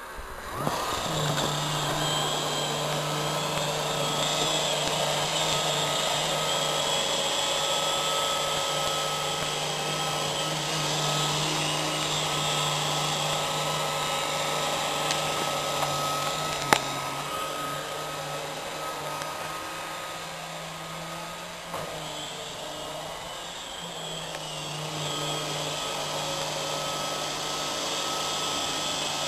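Roomba robot vacuum running steadily while vacuuming a sofa: a continuous motor whir with a low hum under it. A single sharp click comes a little past halfway, and the motor sound dips briefly about three-quarters through before picking up again.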